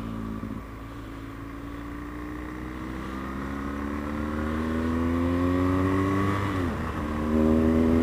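BMW GS adventure motorcycle engine pulling through a gear, its note rising steadily as the bike accelerates. Near the end it drops sharply for an upshift, then pulls on louder, over a steady rumble of wind and road.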